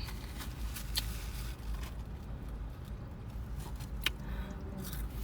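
Chewing food with a few sharp wet mouth clicks, over a steady low hum.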